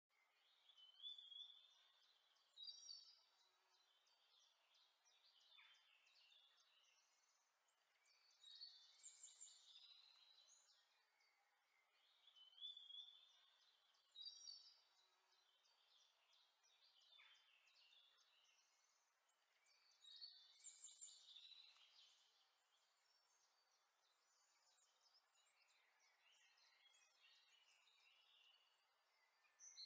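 Faint birdsong: clusters of high chirps and trills that come and go, with the same phrases returning about every eleven seconds.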